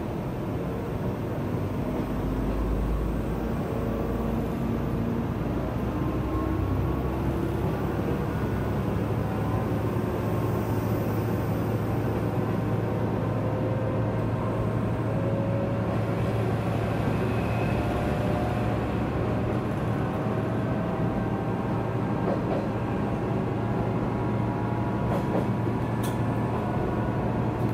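Diesel railcar running at speed, heard from inside the car: a steady rumble of wheels on rails under the engine's drone, with faint whines slowly rising in pitch. A few sharp clicks come near the end.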